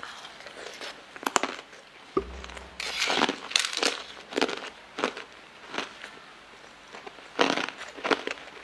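Close-up crunching and chewing of a mouthful of hard, colourful translucent discs eaten off a spoon, in a run of irregular sharp crunches. There is a short low rumble a little after two seconds in.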